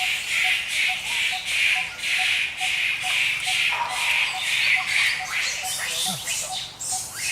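Forest ambience: a steady, rhythmic chirring that pulses about two to three times a second, with a few short, high squeaks around the middle.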